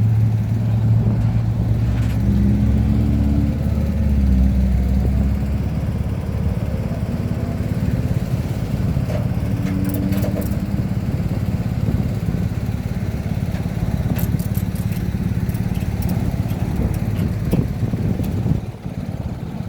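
Motor vehicle engine running: a steady low rumble, with a clearer engine tone in the first five seconds that then settles into an even hum.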